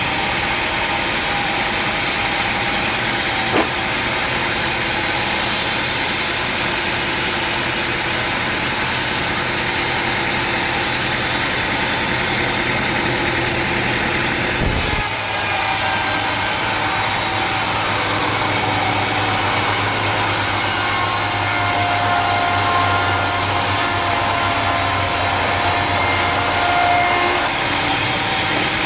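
Sawmill machinery running steadily, with a saw cutting a teak log and a steady whine in the second half. The sound changes abruptly about halfway through.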